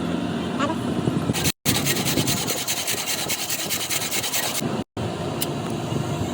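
Fast, even scraping strokes on a gas stove part being worked during a repair, broken by two short silent gaps.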